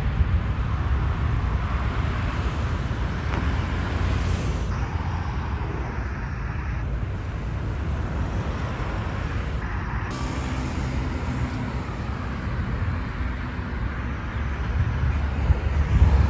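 Jet airliner engines making a steady low rumble that slowly fades.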